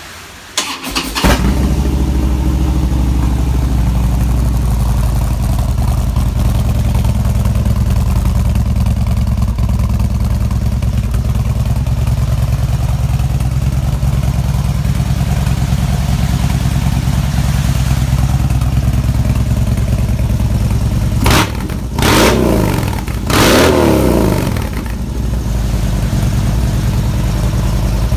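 2016 Harley-Davidson Street Bob's Twin Cam 103 V-twin on Roland Sands Design aftermarket pipes and air filter, started about a second in and then idling steadily. Near the end the throttle is blipped three times, the revs rising and falling back to idle.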